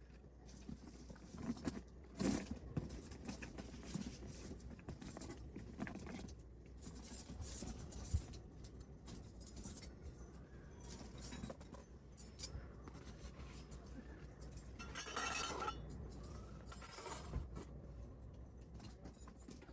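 Light clinks, knocks and rustling of camping gear being handled, scattered irregularly, with a longer rustling scrape about fifteen seconds in.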